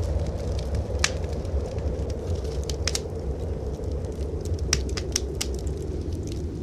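Wood fire in a fireplace crackling, with sharp pops at irregular moments, several of them close together near the middle. Under it runs a steady low rumble of blizzard wind.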